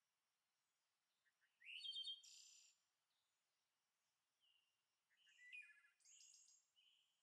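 Faint bird chirping over near silence, in two short bouts of twittering: one about two seconds in and one about five seconds in.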